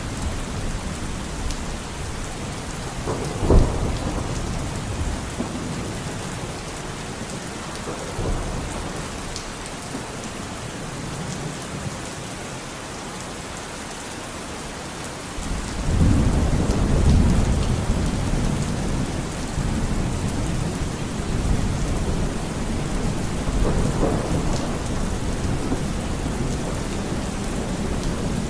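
Steady rain with thunder: a sharp crack about three and a half seconds in, and a long low rumble that starts suddenly about halfway through and rolls on, swelling again near the end.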